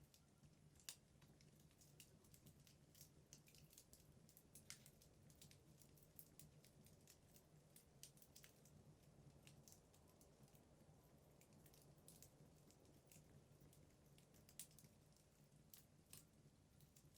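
Wood burning in a fireplace, crackling faintly with scattered sharp pops, over a low steady hum.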